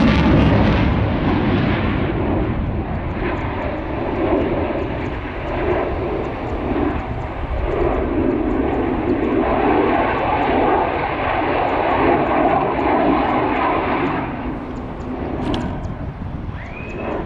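Fixed-wing aircraft engine noise during an airshow flypast: a loud, rushing roar that swells and eases and grows quieter after about fourteen seconds.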